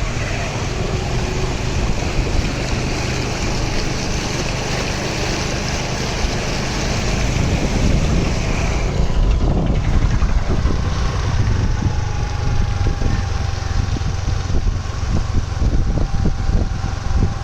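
Motorcycle engine running on the move, mixed with heavy wind noise buffeting the microphone; the rumble gets a little rougher and louder about halfway through.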